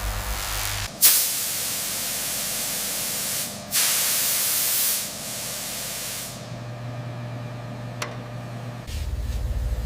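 Two long hissing bursts of spray, the first about two and a half seconds long and the second shorter, fading out; a single sharp click follows a few seconds later.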